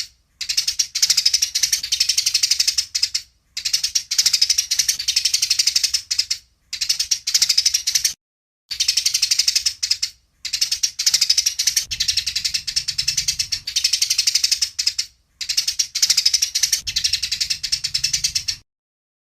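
Eurasian tree sparrows chattering in fast, rattling runs of chirps, the squabbling 'fighting' chatter of sparrows. The chatter comes in bouts of two to three seconds with short breaks and stops shortly before the end.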